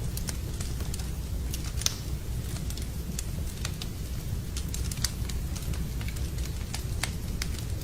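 Wood fire in a fireplace crackling: frequent sharp snaps and pops, a sharper one about two seconds in and another about five seconds in, over a steady low rumble of the burning.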